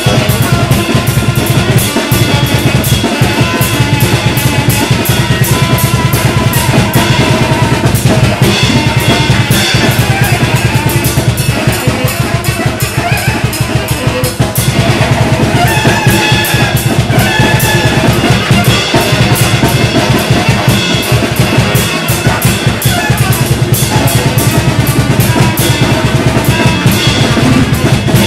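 Loud free-improvised noise music: dense, rapid drum-kit playing with held tones from tenor saxophone and cello over it.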